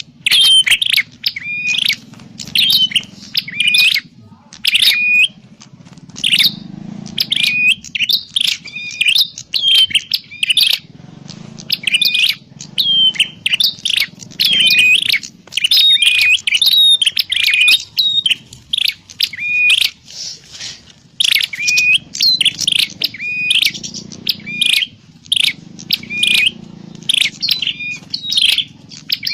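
Prenjak klawu (a small prinia-type songbird) calling: rapid runs of sharp, high chirps with brief pauses between runs. A faint low hum lies underneath.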